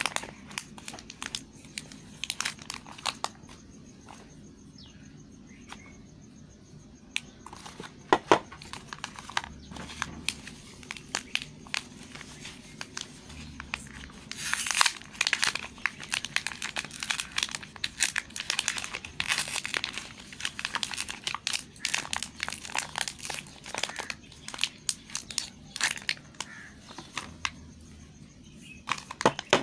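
Soap bar wrappers crinkling and tearing as they are handled and opened, in a dense run of irregular sharp crackles.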